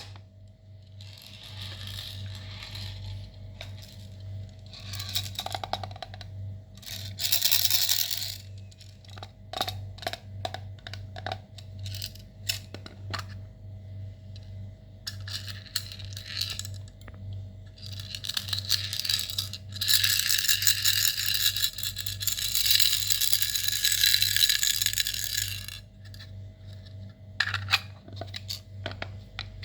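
Slime being squished and worked by hand, with sticky clicks and pops and bursts of crackling, the longest burst in the last third.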